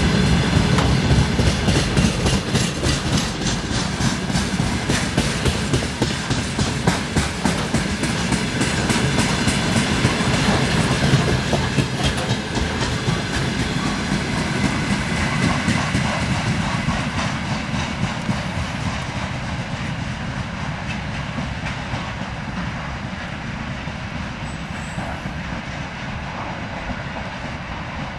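Freight train of railway tank cars rolling past, the wagon wheels clicking rapidly and steadily over the rail joints. The sound grows gradually fainter through the second half as the train moves away.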